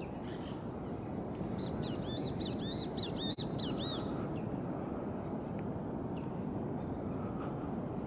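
A small bird calls a rapid string of about a dozen high, arched chirps, from about a second and a half in until about four seconds in, over steady low outdoor background noise.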